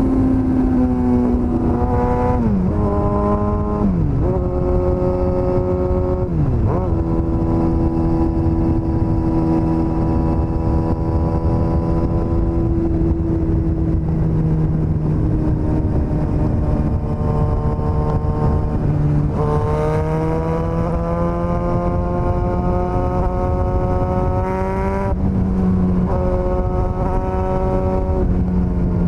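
Suzuki GSX-S1000's inline-four engine on the move: its pitch falls through a few quick downshifts in the first several seconds, holds steady while cruising, then climbs under acceleration about two-thirds of the way in and drops with an upshift. A steady rush of wind and road noise runs beneath it.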